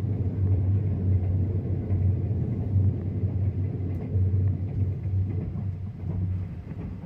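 Low, steady rumble of a moving train.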